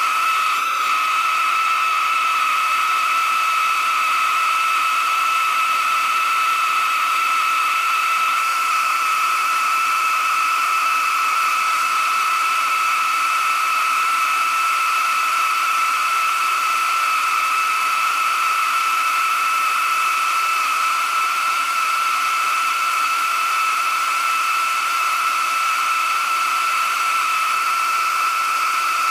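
A steady, unbroken hiss carrying a constant high whine, with no change in pitch or level.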